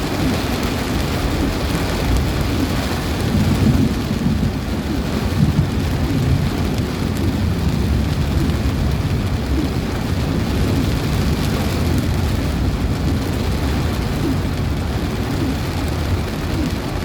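Heavy rain falling in strong wind, a steady noise with a dense low rumble.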